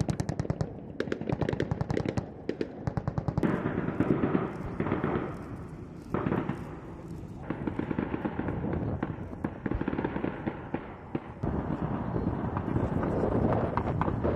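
Machine-gun fire in rapid bursts of sharp shots for the first few seconds, then scattered shots over a steady background of noise that carries on to the end.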